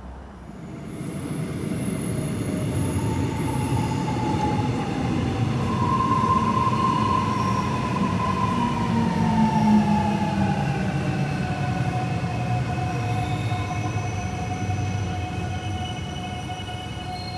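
Electric commuter train pulling into the platform. A heavy rumble builds over the first couple of seconds, and several whining tones slowly fall in pitch as the train slows.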